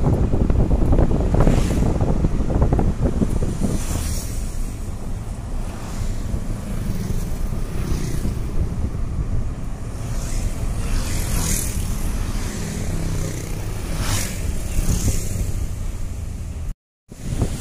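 Wind buffeting the microphone over the rumble of a vehicle travelling along the road, with occasional hissing sweeps. The sound cuts out briefly near the end.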